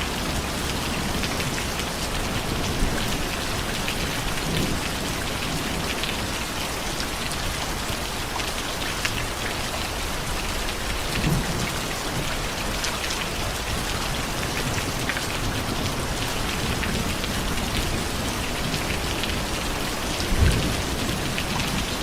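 Steady heavy rain falling and pattering on surfaces, with a brief low rumble about halfway through and another near the end.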